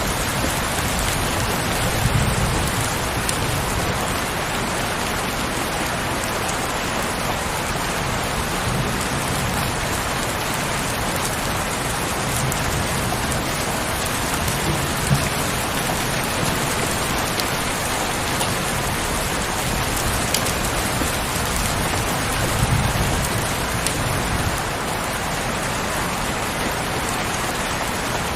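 Heavy rain falling steadily in a dense, even hiss, with low rumbles swelling up a few times.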